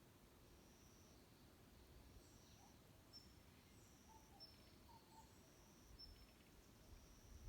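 Faint woodland birdsong: a small bird repeats a short, thin, high whistled note roughly once a second, and a few soft lower calls from another bird come in midway, over a low background rumble.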